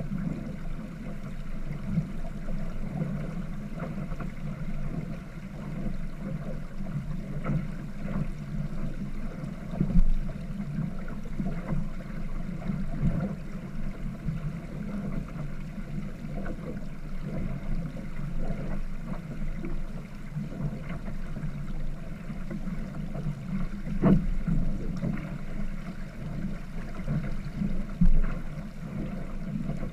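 A sailboat under way: a steady rush of water along the hull mixed with wind, broken by a few louder knocks or thumps, one about a third of the way in and two near the end.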